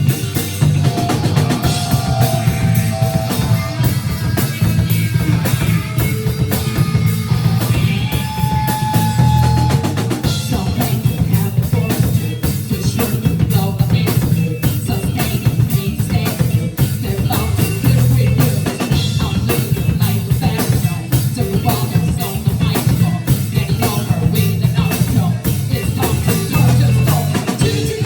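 A live band playing an upbeat rock song, driven by a drum kit with a steady kick and snare beat, and a few held melody notes in the first ten seconds.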